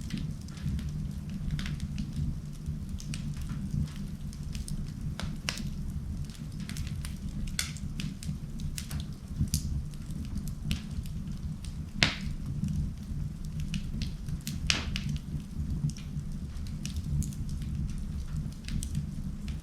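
Wood fire in an indoor fireplace crackling, with scattered pops and two louder pops about twelve and fifteen seconds in, over a steady low rumble of the flames.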